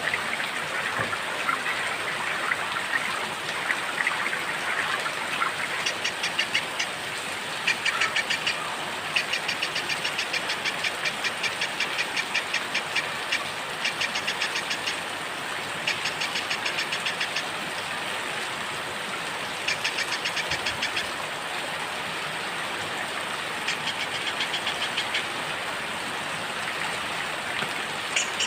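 Steady rain falling, with a small songbird breaking in again and again with fast, high trills, each run a second or two long.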